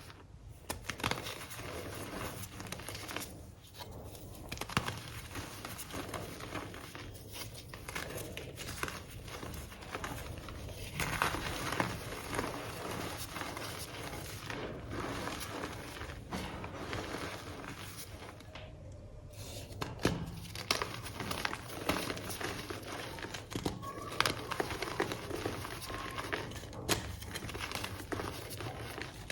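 Chunks of reformed gym chalk being crushed and crumbled, a dense run of crunching and crackling with a few short pauses. After a pause about two-thirds of the way in, a larger reformed chalk block, a 'loaf', is crushed.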